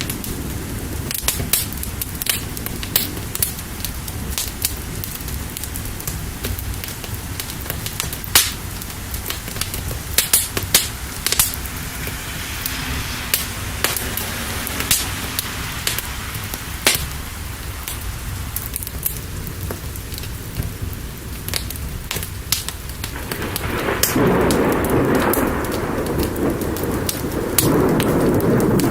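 Steady rain with low thunder underneath, and scattered sharp crackles and pops from a burning fire. About three-quarters of the way through, the thunder and rain swell louder.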